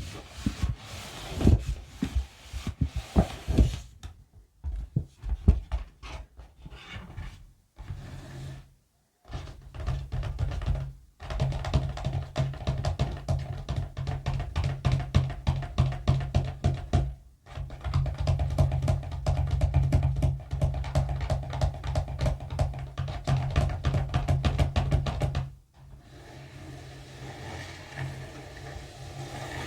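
Close-miked ASMR tapping: dense, rapid taps in several runs that stop and start, with a steady low hum under the longer runs.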